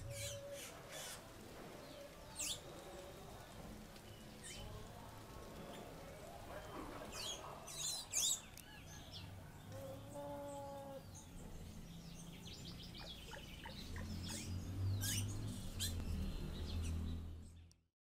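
Birds chirping and calling, many short rising and falling calls, with louder ones about two and eight seconds in. A low rumble swells near the end, then the sound fades out.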